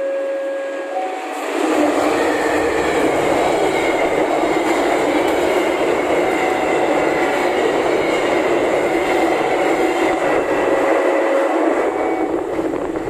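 Passenger train passing close by: a loud, steady rush of wheels on the rails, starting about a second and a half in. Before that, a held two-note tone sounds briefly.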